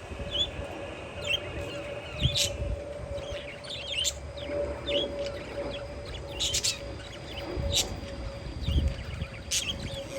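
Parakeets chirping, with many short, quick calls overlapping one another. Wind gusts rumble on the microphone, and a steady low hum runs underneath.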